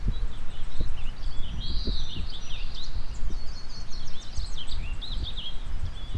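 Several songbirds singing at once, a dense chorus of quick high chirps and trills, over a low gusting rumble of wind.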